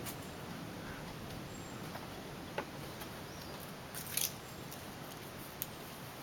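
Quiet outdoor ambience: a steady low background hum with a few faint, sharp clicks, about two and a half seconds in, a small cluster around four seconds and one more near the end.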